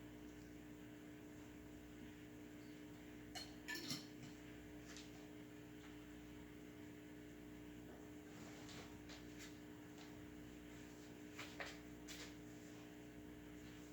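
A few faint clinks and knocks of dishware being handled, two small clusters standing out about four seconds in and near the end, over a steady low electrical hum.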